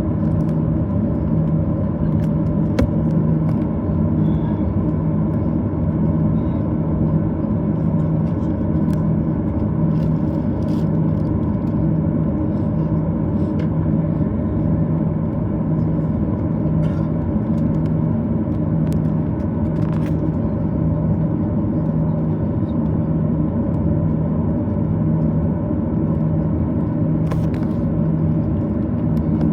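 Steady cabin rumble of a Boeing 737-800 on the ground before takeoff, its engines at idle, with a low droning hum that swells and fades about once a second and a few faint ticks.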